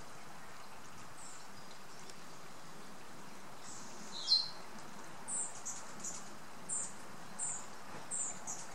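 A bird chirping over a steady background hiss: one short, louder call about four seconds in, then a run of short, high chirps about half a second to a second apart.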